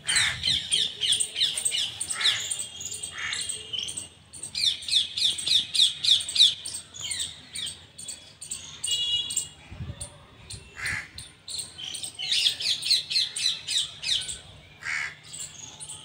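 Small birds chirping in quick runs of short calls, in three long bouts, with a brief harsher call about nine seconds in.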